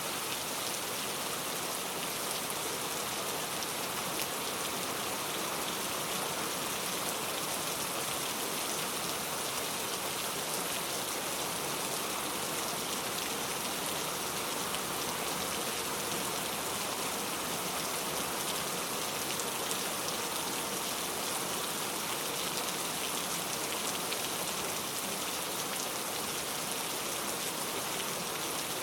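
Steady rain falling, an even pattering hiss that holds the same level throughout.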